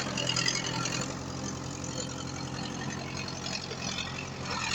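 Heavy diesel engine of earthmoving machinery running steadily. Over it is a noisier mechanical sound that swells briefly near the end.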